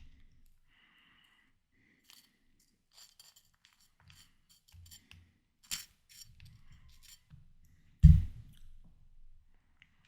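Close-miked eating of ripe watermelon: soft wet chewing with scattered small mouth clicks and crackles, a sharp click near the middle and a loud sudden thump about eight seconds in.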